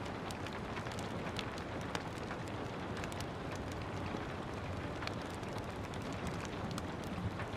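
Steady rain with a wood fire crackling over it: scattered sharp pops and snaps over an even hiss.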